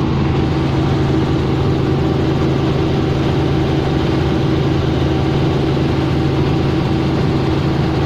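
Helicopter engine and rotor noise, running steadily at an even pitch and level.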